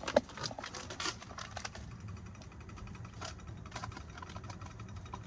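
Pot of fettuccine in broth at the boil on the stove: a quick run of light clicks and taps in the first couple of seconds, then a steady low bubbling hum.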